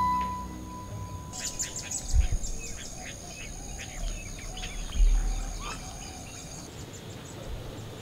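Birds chirping and calling, with a high, steady tone held under the chirps for several seconds. Two dull low thumps come about two seconds and five seconds in.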